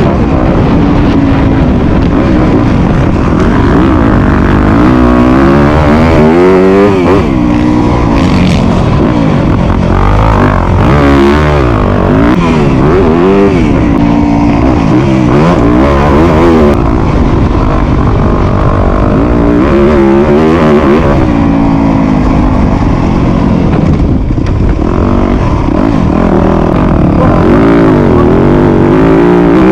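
Motocross dirt bike engine revving hard and loud, its pitch climbing and dropping again and again as the throttle is worked.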